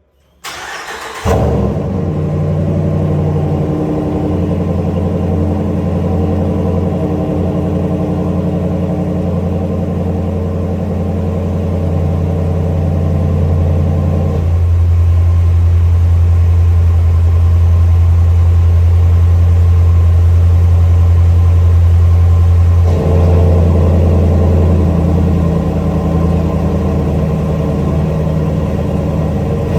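Dodge RAM 1500's 5.7L V8 through an exhaust fitted with a bypass cutout valve, starting up about a second in and then idling steadily. Its tone changes at about the halfway point, turning deeper with less of the upper sound, and returns to the first sound about three-quarters of the way through.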